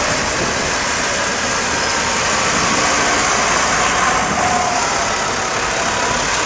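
Tractor engines running steadily in a dense mix of engine noise.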